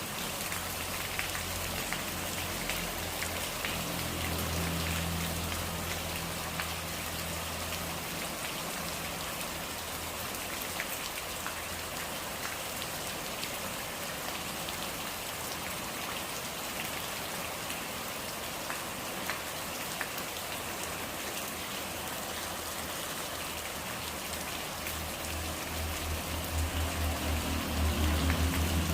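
Steady rain falling, with single drops ticking close by and a low rumble that comes and goes, strongest near the end.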